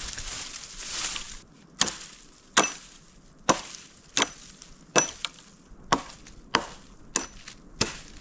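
Wood being chopped: about nine sharp, evenly paced chopping strikes, roughly one every 0.7 s, after a brief rustle at the start.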